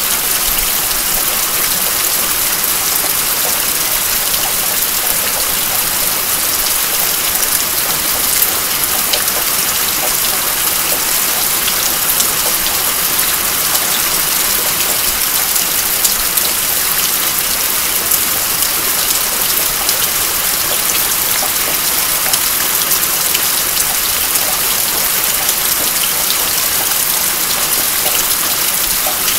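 Steady rain falling: an even hiss with the patter of many single drops throughout.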